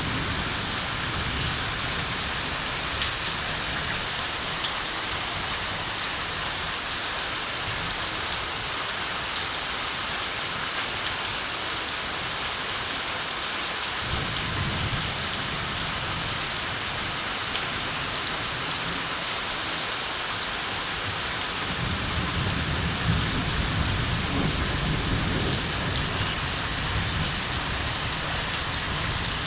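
Steady rain falling, with low rumbles of distant thunder at the start, about halfway through, and again over the last several seconds.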